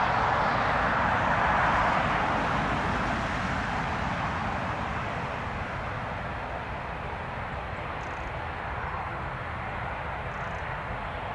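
Turboprop airliner's engines and propellers, a steady rushing noise that fades over the first few seconds as the aircraft moves away, then holds low.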